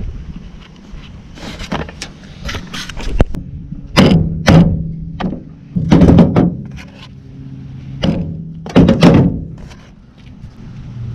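Hammer blows driving a new rear main seal into its housing on a BMW E36 engine, struck through the old seal laid on top to seat it evenly. A series of sharp knocks at uneven spacing, several leaving a brief metallic ring.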